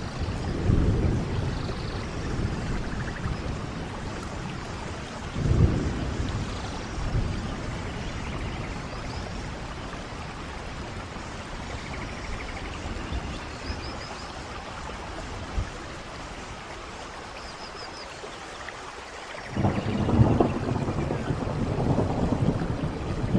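Steady rainfall with rolling thunder: low rumbles about a second in and again near six seconds, then a longer, louder rumble from about twenty seconds on.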